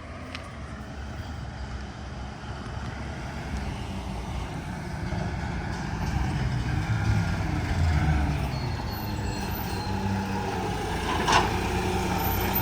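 Volvo garbage truck's diesel engine running, growing steadily louder as the truck approaches, its pitch moving up and down in the middle. About eleven seconds in there is a short sharp sound.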